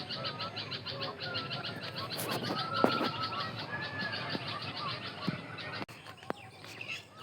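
Birds singing and calling together: a fast run of repeated high chirps with clear whistled notes gliding over it. The sound drops abruptly about six seconds in.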